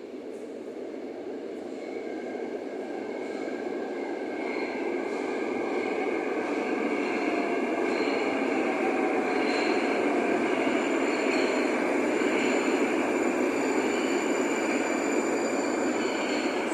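Moscow Metro train running, its rumble of wheels and motor whine growing steadily louder, with thin high-pitched whining tones over the rush.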